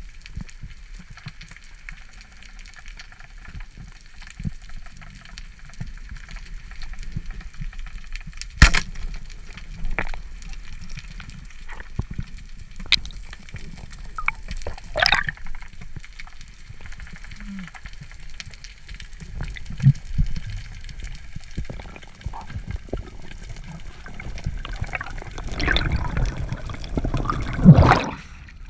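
Water sloshing and gurgling, with a few sharp knocks and a louder, busier stretch near the end.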